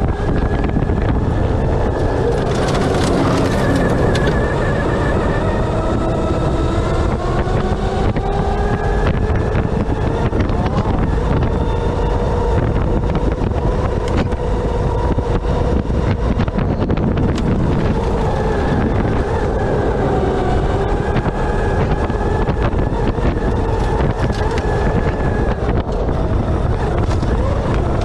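Electric Baja off-road buggy driving, its motor whine rising and falling with speed over a low rumble and heavy wind noise on the microphone.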